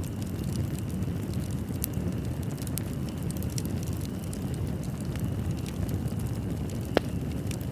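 Wood fire in a fireplace burning with a steady low rumble and scattered crackles and pops, one sharper pop about seven seconds in.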